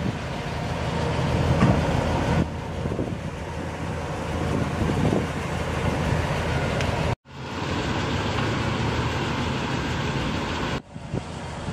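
Steady outdoor rumble of vehicle and wind noise, with no clear events. The sound cuts abruptly about two and a half, seven and eleven seconds in, dropping out briefly at the seven-second cut.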